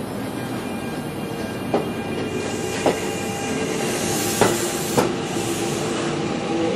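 Kintetsu electric commuter train running along the station platform, its wheels clicking sharply over rail joints about every second, over a steady whine.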